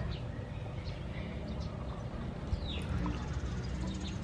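Birds chirping in the background, a handful of short calls, some sweeping downward, over a steady low background noise.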